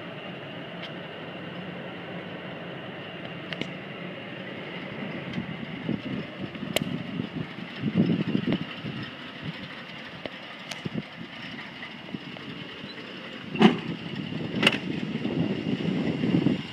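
1971 Ford Thunderbird's V8 engine running with a steady rumble, swelling louder about eight seconds in and again near the end, with a few sharp clicks over it.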